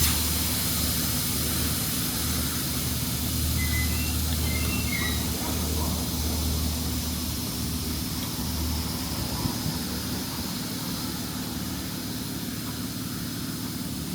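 A steady hiss that starts abruptly, over a low steady hum.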